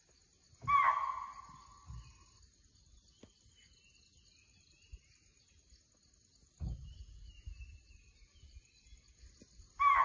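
Forest ambience: a steady high insect drone, with a loud bird call about a second in and the same call again near the end, and fainter bird chirps between. A low thump comes about two-thirds of the way through.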